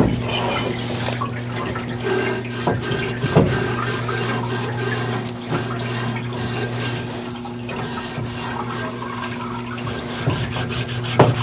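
Parts washer running with a steady electric pump hum while cleaning fluid pours from its nozzle over engine parts, with a few light knocks as parts are handled.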